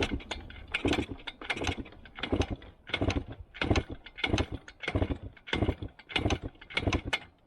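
1973 Yamaha AT3 125 two-stroke single being turned over again and again, about eleven quick strokes, without firing. It won't catch because the carburetor's fuel bowl is empty.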